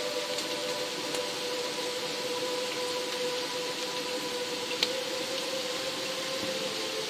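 Steady rain hiss with a soft ambient music drone held underneath, one sustained low note that shifts slightly near the end. A single louder raindrop click comes about five seconds in.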